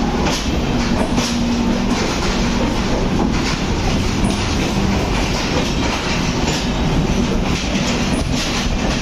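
Passenger train coaches rolling past at speed, the wheels clacking over rail joints again and again over a steady rumble, with a faint hum coming and going.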